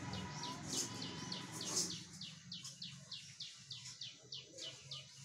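A small bird chirping over and over, short high chirps that slide downward in pitch, about three a second. A low steady hum sits underneath and drops away about two seconds in.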